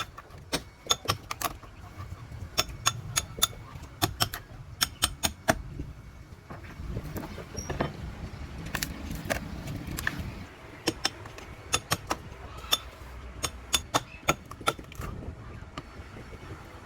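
Sharp taps or knocks in quick runs of several strikes with short pauses between, over a low steady rumble.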